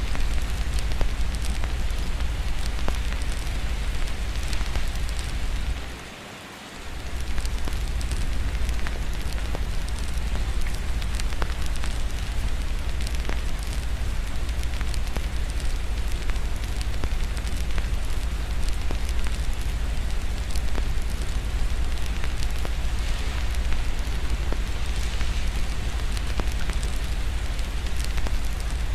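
Fireplace crackling with many small pops over a steady hiss of rain and a low rumble. The sound dips briefly about six seconds in, then carries on as before.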